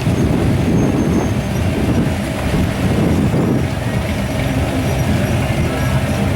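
Car engine running with a loud, steady low rumble.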